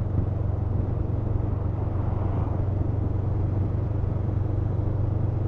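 Honda CMX500 Rebel's parallel-twin engine running at a steady cruise, a constant low drone with road and wind noise over it.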